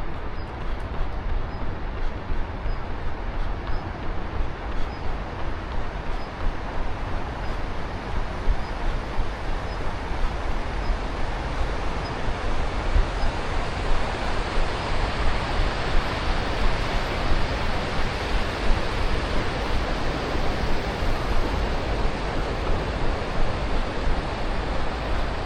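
Steady rushing noise of wind and city traffic on a body-worn action camera's microphone during a run, with the runner's footfalls as frequent soft thumps.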